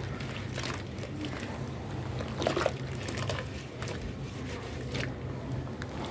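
Pure cement being crushed into a wet paste: irregular squishing and crackling at uneven intervals.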